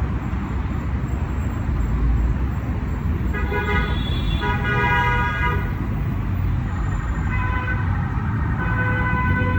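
Road traffic running steadily, with car horns honking several times: two honks a few seconds in and a longer run of honking near the end.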